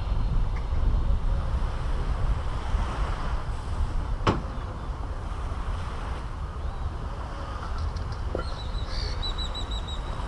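Sea waves washing on a beach with wind rumbling on the microphone. A single sharp click comes about four seconds in, and a bird calls a quick run of chirps near the end.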